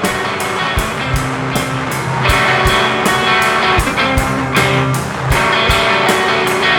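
Rock band playing an instrumental passage: electric guitar over held bass notes, with a steady kick-drum beat about twice a second and regular cymbal hits.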